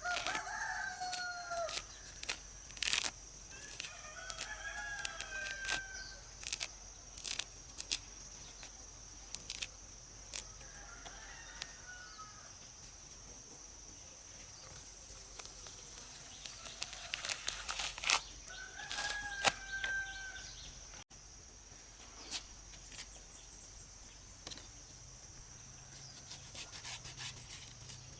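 A rooster crowing about four times, with scattered sharp clicks and knocks and a steady high-pitched tone underneath.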